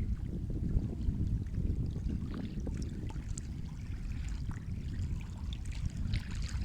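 Sea water washing and lapping: a steady low wash with scattered small splashes and trickles.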